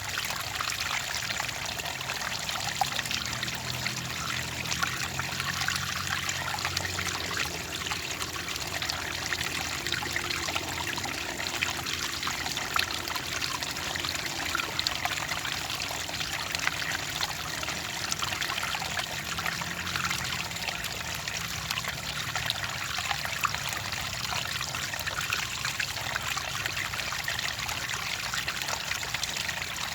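Clear water trickling and pouring steadily, with a continuous splashing patter and no pauses.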